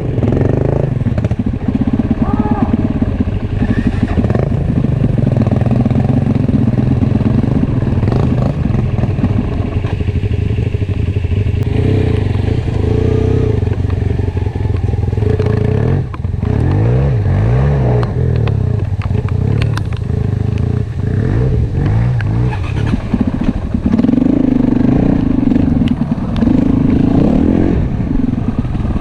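Enduro motorcycle engine being ridden off-road, the revs rising and falling with the throttle, with scattered short knocks.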